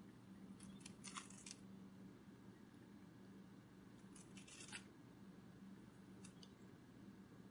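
Near silence over a low steady hum, broken by a few short clusters of faint, crisp clicking: one about a second in, another about four seconds in, and a single brief one near the end.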